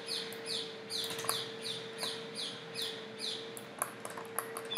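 A bird chirping repeatedly in the background, short falling chirps about two to three a second that pause near the end, over a steady hum, with a few sharp clicks.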